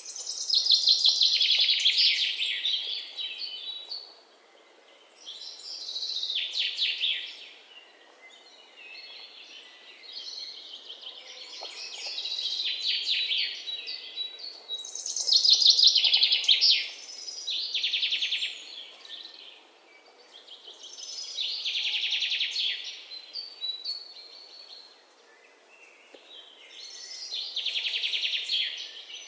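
Songbird singing fast trilled phrases of about two seconds each, repeated every few seconds, over a faint outdoor hiss.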